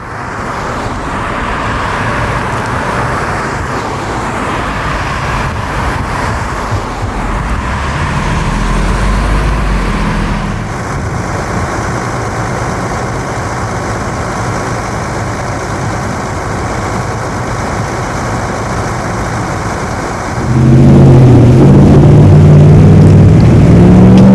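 Road traffic and vehicle engines running. About twenty seconds in the sound gets much louder, with a heavy engine's low, wavering drone close by.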